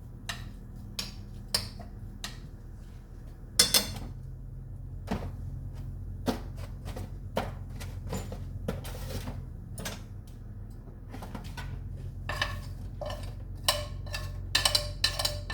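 A kitchen utensil knocking and clinking against cookware while eggs are being prepared: scattered single taps at first, then a quicker run of ringing clinks near the end, over a steady low hum.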